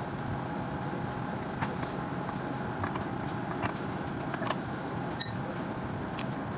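Steady background hiss with scattered small clicks and one light metallic clink about five seconds in.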